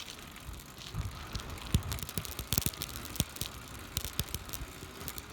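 Riding noise from a bicycle with a phone held against the handlebar: irregular clicks, knocks and rattles over a low hiss of rolling tyres.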